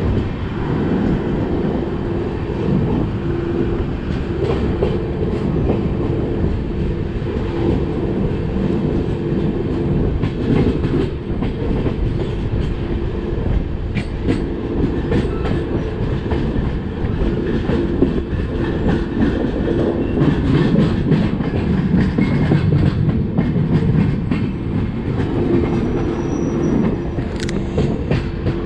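Passenger train running on the rails: a steady rumble and a low hum, with the irregular clickety-clack of wheels over rail joints.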